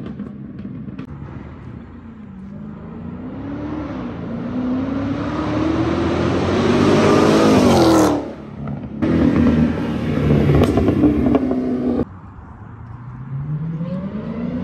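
Straight-piped Dodge Hellcat's supercharged V8, no mufflers or resonators, accelerating hard with its pitch climbing for several seconds to a loud peak about halfway, then stopping abruptly. A second loud stretch also ends suddenly, and near the end the engine revs up again with rising pitch.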